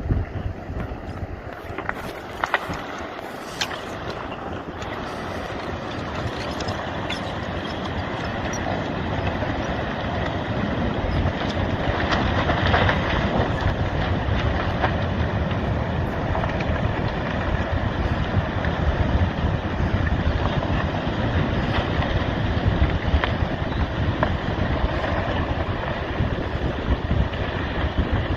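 Steady wind rushing across the microphone with a low rumble underneath, growing louder over the first ten seconds or so, with a few faint clicks near the start.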